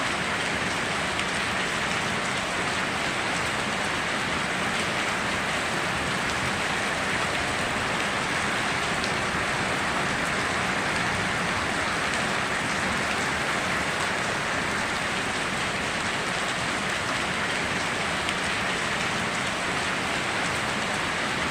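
Steady heavy rain falling on surfaces, a dense even hiss with fine drop patter and no thunder.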